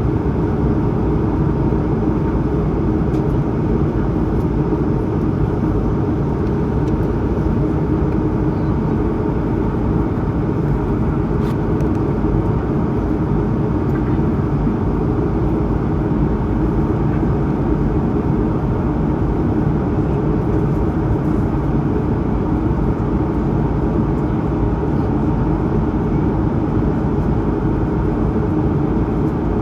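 Steady in-flight cabin drone of an Airbus A220-100 climbing: the deep, even rumble of its Pratt & Whitney PW1500G geared turbofan engines and airflow, heard from inside the cabin, with a faint steady tone above it.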